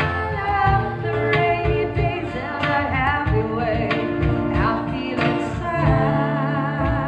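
A female vocalist singing with acoustic guitar and acoustic percussion accompaniment, ending on a held note with vibrato.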